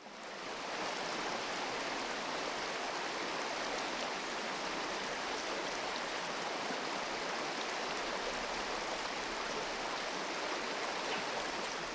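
Stream water flowing and rushing steadily, fading in at the start and fading out near the end.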